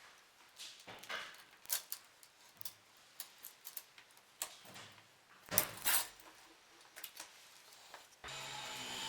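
Scattered light clicks and knocks of bicycle parts and tools being handled, the loudest pair about five and a half seconds in. Near the end a steady hiss starts abruptly.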